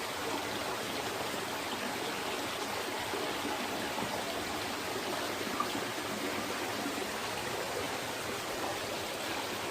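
Forest stream water running and splashing steadily, an even rushing sound.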